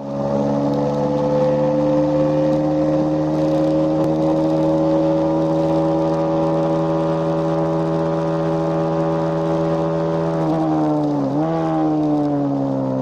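KTM Duke 390's single-cylinder engine pulling hard at high revs, its pitch climbing slowly as the bike gains speed. About ten and a half seconds in the pitch dips, jumps sharply with a downshift blip, then falls away as the bike slows for a corner.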